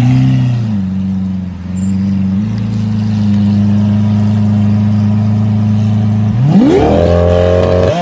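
Car engine with a loud exhaust idling steadily, its pitch stepping down and back up, then revved hard about six and a half seconds in and held high before cutting off.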